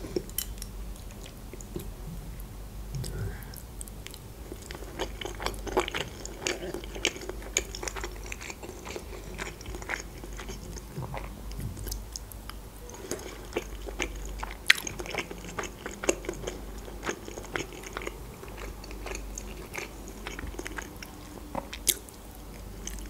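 Close-miked eating: soft boiled pelmeni with mayonnaise being chewed, with many small wet mouth clicks and smacks.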